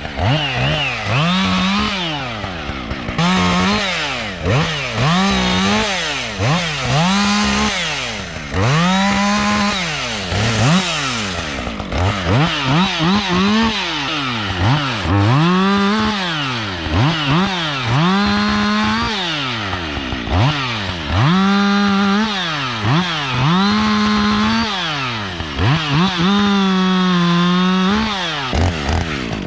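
Husqvarna 562 XP two-stroke chainsaw revved again and again while cutting up a downed tree. Its pitch rises to a held high note under throttle, then drops back toward idle, about a dozen times.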